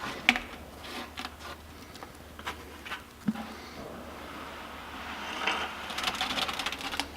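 Wet concrete being scooped and dropped into a hollow wooden workbench post: scattered knocks and scrapes, with a denser stretch of scraping and rattling near the end.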